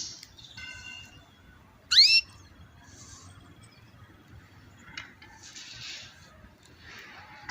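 Caged birds calling: a short chirp, then a loud rising call about two seconds in, followed by a few short noisy calls.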